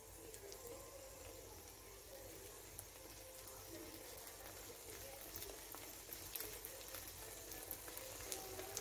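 Vegetable egg omelet frying in oil on a flat black griddle: a faint, steady sizzle with light crackles.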